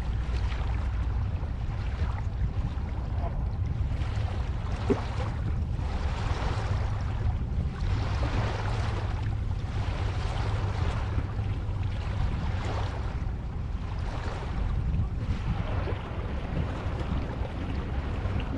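Ocean surf: a steady rush of breaking waves that swells and ebbs every second or two over a deep low rumble.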